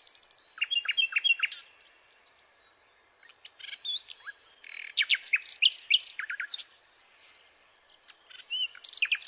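Small birds chirping and calling in quick clusters of short, sweeping notes, with brief quiet gaps between the clusters.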